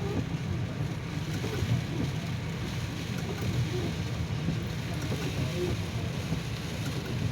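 Floodwater rushing through a parking lot with light rain, heard from inside a parked vehicle as a steady wash over a low rumble.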